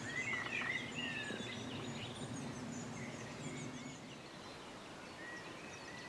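Faint birdsong in open meadow: a few short sliding calls and scattered high, brief chirps, over a low, even background noise that eases about four seconds in.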